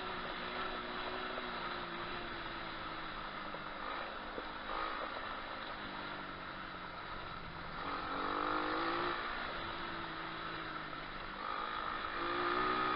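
125cc pit bike engine running as the bike is ridden, its pitch rising and falling with the throttle, with clear revs about two-thirds of the way through and again near the end.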